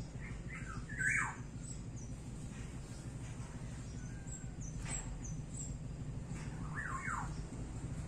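Birds chirping in the background: a few quick falling chirps about a second in and again near the end, with brief high peeps in between, over a steady low hum.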